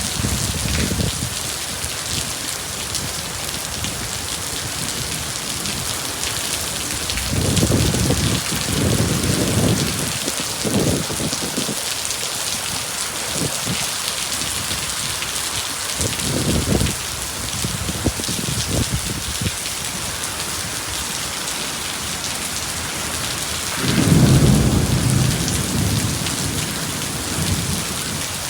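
Thunderstorm: heavy rain falling steadily with several low rolls of thunder, one about a quarter of the way in, a short one past the middle, and the loudest near the end.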